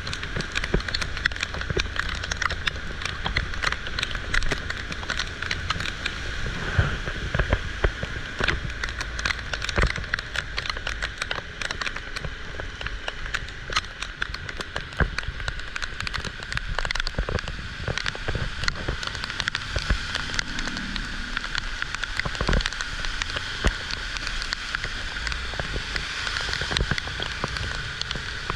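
Heavy rain falling, with dense, sharp drop hits on hard surfaces over a steady hiss and a low rumble underneath.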